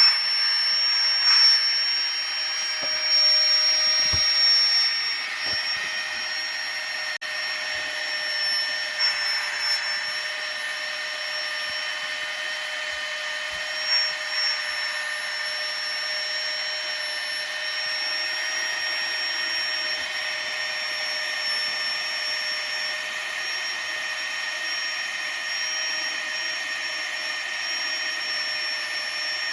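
Flextail portable air pump running steadily as it inflates an air mattress, a constant high-pitched whine from its small motor and fan.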